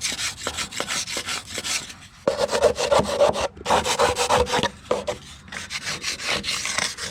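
Quick repeated strokes scraping caked clay, mud and grass off a riding lawnmower deck. About two seconds in, the strokes get louder and take on a ringing tone for a couple of seconds, then drop back.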